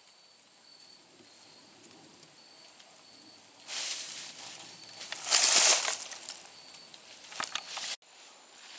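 Faint insect chirping with a steady high tone, then a loud rush of rustling and crackling from about halfway through, with sharp crunches near the end. The rustling and crunching is typical of dry fallen leaves being walked through or brushed. The sound cuts off abruptly just before the end.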